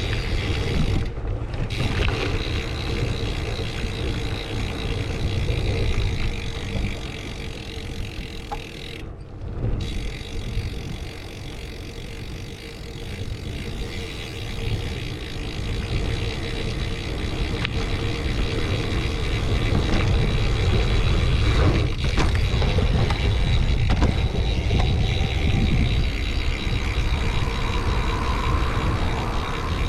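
Riding noise on a bicycle-mounted action camera: wind buffeting the microphone as a heavy, uneven rumble over a steady rush of tyres and bike. The high hiss cuts out briefly twice, about a second in and again near nine seconds.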